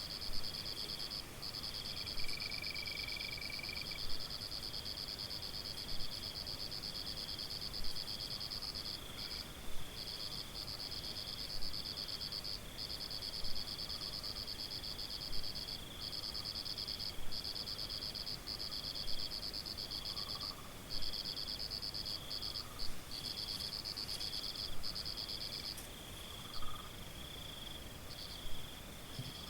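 Forest ambience of insects trilling steadily in a high pitch, with a second, pulsing trill a little lower and a short call repeating about every two seconds.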